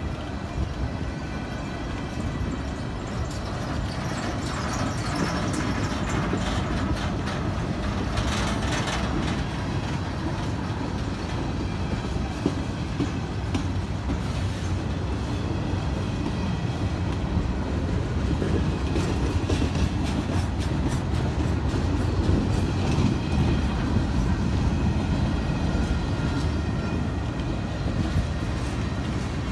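Empty steel-coil freight cars rolling past, a steady rumble of wheels on rail with clicking over the rail joints and faint thin wheel squeal at times, getting a little louder in the second half.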